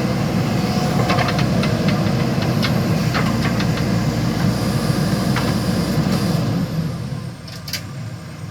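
JCB backhoe loader's diesel engine running hard while working, with scattered sharp metallic clanks and clicks. About two-thirds of the way through the engine eases off and runs quieter.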